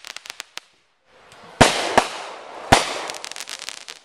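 Fireworks going off: two loud bangs about a second apart, each trailed by a fading hiss and a scatter of sharp crackles.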